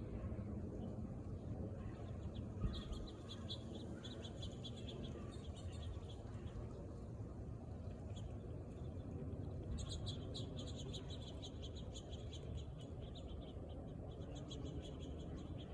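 Woodpecker calling: three runs of rapid, evenly spaced short high notes, about seven or eight a second, each run lasting one to three seconds, over steady low background noise.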